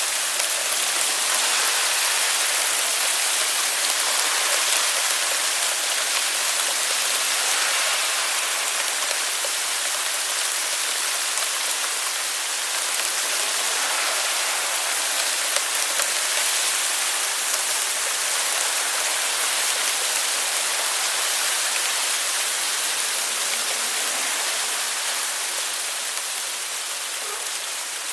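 Hail falling heavily, countless small pellets striking surfaces in a dense, steady hiss that eases slightly near the end.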